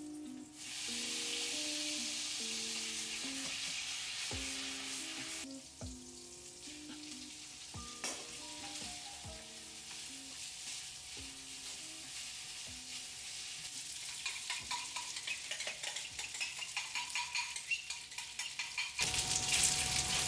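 Bacon frying in a pan, a steady sizzle that turns to denser crackling pops in the last few seconds.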